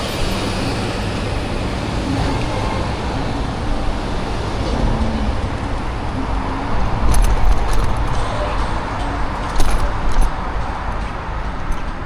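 Road traffic and street noise heard from a moving e-bike, with low rumble throughout and a few sharp rattles or knocks in the second half.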